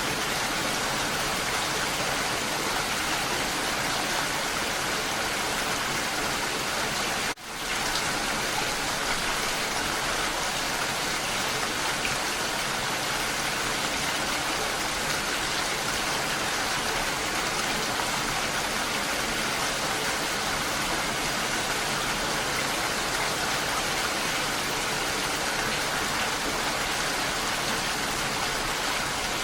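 Steady rain falling, an even dense patter, on the roses in view; the sound cuts out for a split second about seven seconds in.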